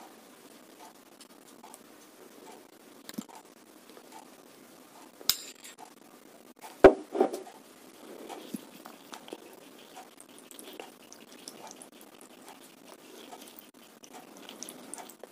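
Cutlery clinking against a bowl of bakso meatball soup: a few scattered clinks and scrapes, the loudest about seven seconds in, with a couple more close after it.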